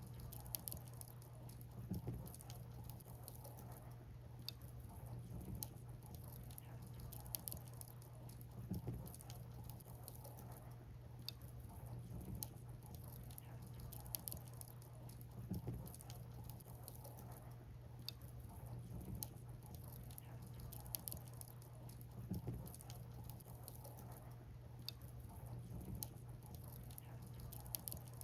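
Burning firewood crackling: irregular sharp pops and snaps, several a second, over a steady low hum.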